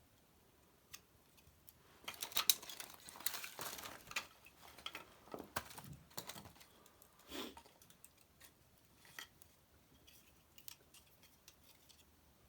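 Wood fire in a fireplace crackling and popping: a dense run of sharp crackles starts about two seconds in and thins to scattered pops after about seven seconds.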